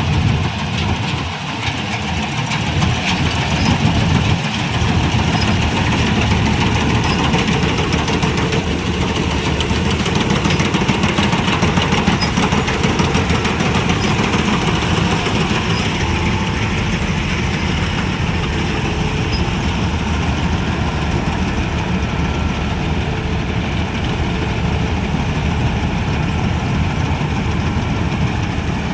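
Wheeled paddy combine harvester running steadily, its engine giving a dense, unbroken low rumble under a broad mechanical clatter.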